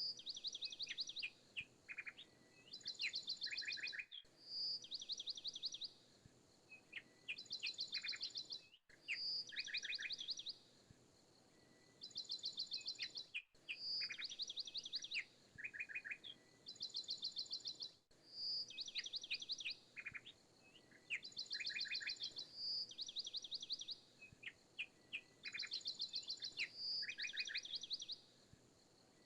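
Looped background recording of small birds chirping: the same phrase of rapid high trills and short chirps repeats about every four and a half seconds, with a brief gap at each loop point.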